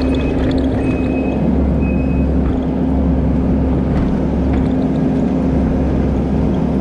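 Skid steer loader's diesel engine running steadily under work, with a few short high beeps in the first two seconds.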